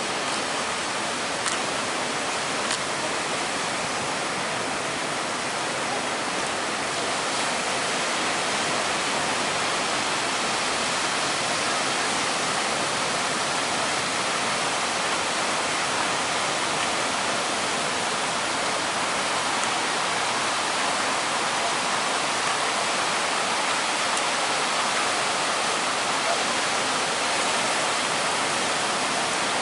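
Steady rushing roar of rough surf driven by strong onshore wind, an even noise with no breaks between waves.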